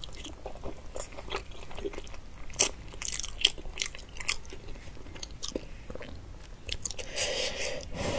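Close-up mouth sounds of a person biting and chewing soft, fatty braised pork belly, with many short sharp clicks and two louder ones a few seconds in.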